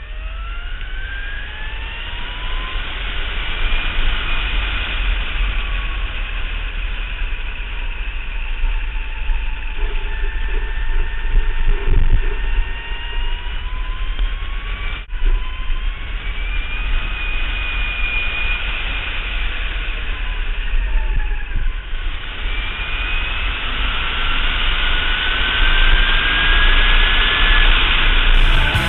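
Lightning electric racing motorcycle at speed: a high electric-motor whine that rises and falls in pitch as it speeds up and slows down, over a steady rush of wind and road noise.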